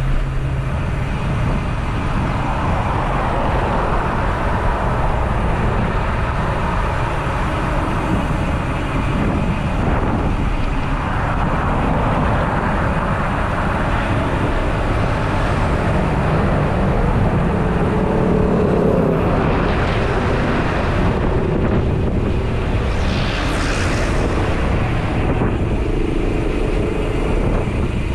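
Steady road traffic noise with low wind rumble on the microphone during a ride along a highway. Vehicles pass, one louder pass about 23 seconds in.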